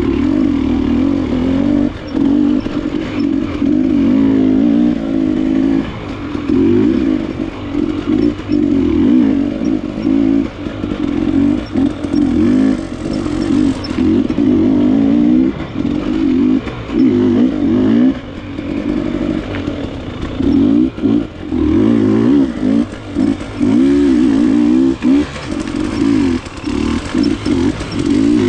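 KTM enduro motorcycle engine being ridden hard off-road. The revs climb and fall over and over as the throttle opens and shuts every second or two, with brief dips between bursts.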